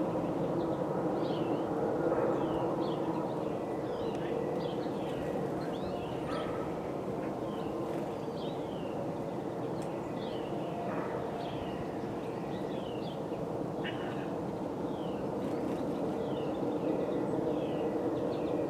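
Many small birds chirping at once, a dense run of short downward-sweeping chirps, over a steady low background rumble.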